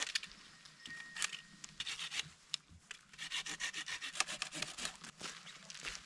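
Hand saw cutting firewood into smaller pieces for a tent stove, in quick back-and-forth strokes that come thickest in the second half.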